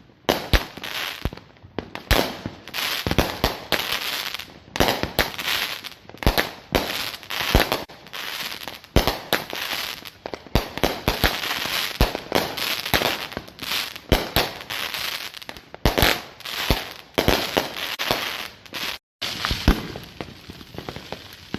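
Consumer fireworks going off: a rapid, irregular string of sharp bangs over constant crackling. There is a brief dead gap a little after 19 seconds.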